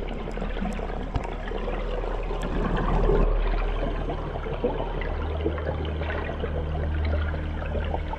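Underwater water noise: a dense bubbling, rushing wash over a steady low hum, swelling slightly a few seconds in.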